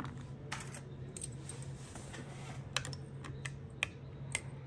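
Small hand tools clicking and tapping against the phone's parts during disassembly of an iPhone 14: a few short, sharp, irregular clicks over a steady low hum.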